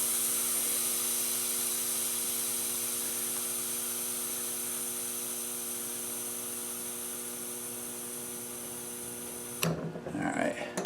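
Air hissing out of a lawn tractor tire's valve stem as the valve core is held open, a steady hiss that slowly fades as the tire loses pressure, then cuts off suddenly near the end.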